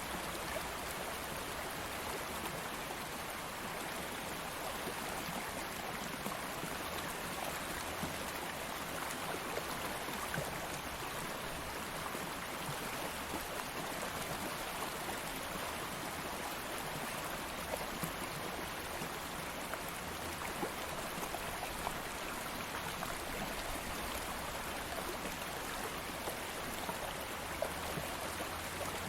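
Stream of water flowing steadily over rocks, an even rush with small splashes and trickles scattered through it.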